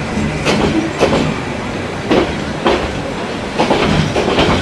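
Railway carriage running along the track, heard from on board: a steady rumble with the wheels knocking sharply over the rail joints in an uneven clatter, about one or two knocks a second.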